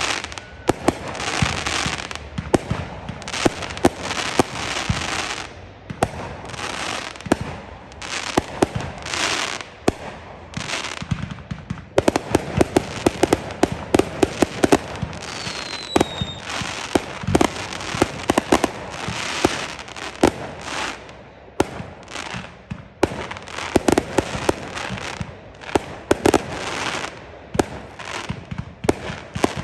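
Fireworks display: a steady barrage of sharp bangs and crackling bursts, with a brief falling whistle about halfway through.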